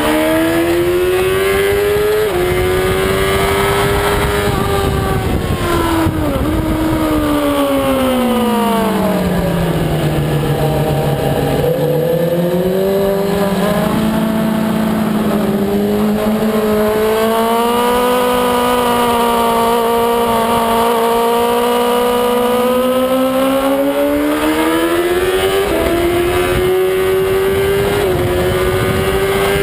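Racing motorcycle's engine heard from onboard, with wind noise: the note climbs and steps through an upshift about two seconds in, then falls for several seconds as the rider brakes and downshifts into a slow corner. It holds low through the corner, then climbs again from about halfway, with more upshifts near the end as the bike accelerates onto the straight.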